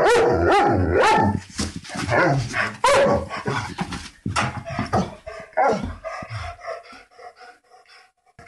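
Dogs barking in quick succession, several barks overlapping and loud at first, then thinning to fewer, fainter barks near the end.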